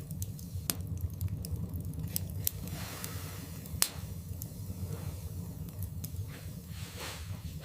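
Wood fire burning in a fireplace: a steady low rumble with frequent, irregular sharp crackles and pops, the loudest about four seconds in, and a few soft hisses.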